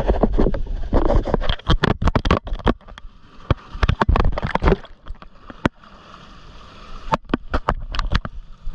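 Water splashing and slapping against a small rigid-hull inflatable boat, with irregular sharp knocks over a low rumble, busiest in the first half and calmer near the end.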